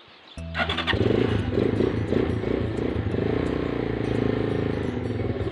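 Motorcycle engine starting, catching about a second in and then running steadily, left to warm up so oil reaches the top end before riding, which the owner recommends against valve tapping.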